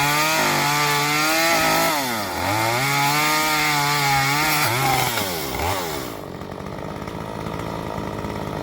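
Two-stroke chainsaw running at high revs; the revs sag and climb back about two seconds in, dip again near five and a half seconds, then drop away about six seconds in.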